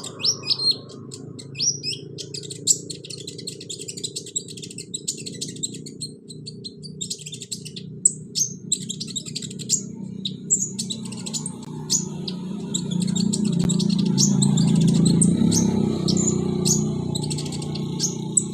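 Kolibri ninja (konin) song: rapid, high-pitched chirps and trills that repeat without pause, over a steady low background sound that swells in the second half.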